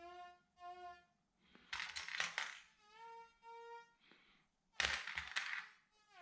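Minelab Excalibur II metal detector giving paired target beeps through its repaired headphones as the coil sweeps back and forth over an old silver target. The pitch steps up in the middle pair, and there are two short bursts of clatter at about two seconds and five seconds.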